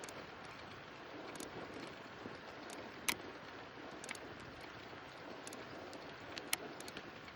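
Steady hiss of wind and rolling tyres on a bicycle ride, with scattered light clicks and two sharper ticks about three and six and a half seconds in.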